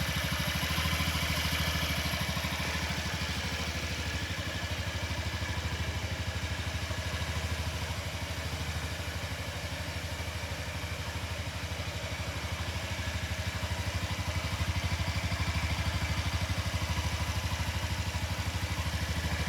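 Honda Zoomer scooter's small single-cylinder four-stroke engine idling steadily, an even rapid putter.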